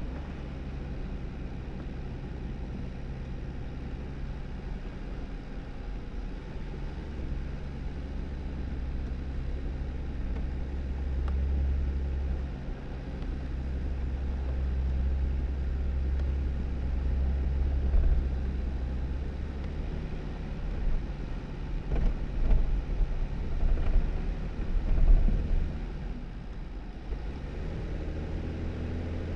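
A 2018 Jeep Wrangler driving on a snowy dirt road: a steady low engine hum with tyre noise. Several louder bumps and rumbles come in the last third.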